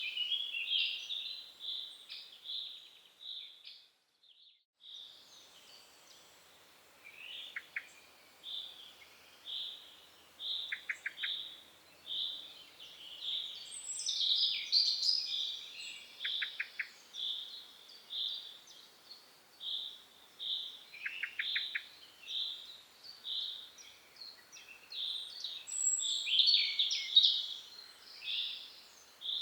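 Woodland birds calling: a short chirping note repeated about twice a second, overlaid with other chirps and brief rattling trills, with a short break about four seconds in.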